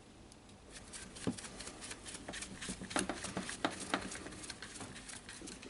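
Irregular light clicks and taps of the circular saw's motor housing parts being handled and fitted together by hand, busiest in the middle.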